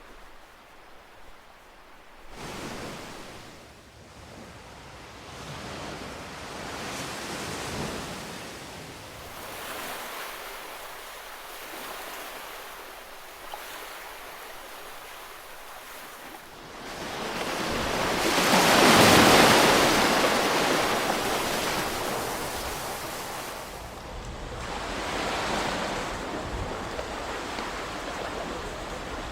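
Ocean waves breaking and washing up the shore in slow surges, the largest about two-thirds of the way through, with some wind on the microphone.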